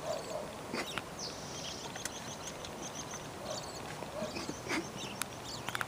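Quiet outdoor background with faint, repeated bird chirps and a few small clicks.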